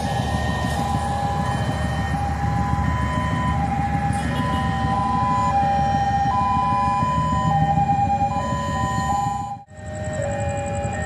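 An electronic tune of steady tones stepping between a few pitches, over a low rumbling background. It cuts out abruptly near the end.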